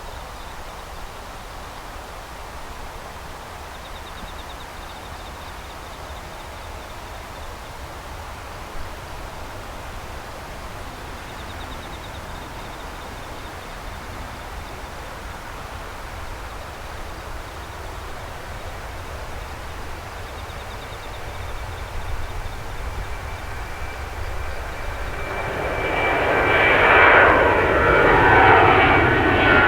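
Jet airliner approaching and passing close, its engine noise building over the last several seconds to a loud roar, with whining tones falling in pitch as it goes by. Before that there is a steady low rumble.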